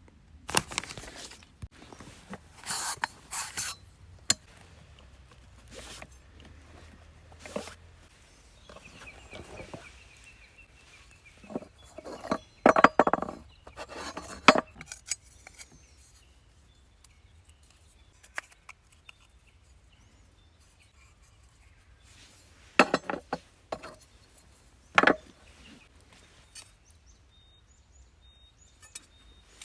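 Intermittent clinks, clatters and knocks of hard camping gear being handled, with a few sharp single knocks.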